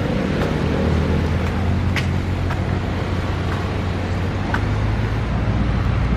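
A steady, loud, low engine drone with a pitched hum.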